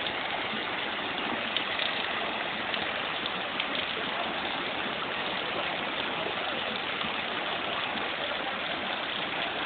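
Steady rush of water from a street flooding after a short heavy downpour, with a few faint ticks.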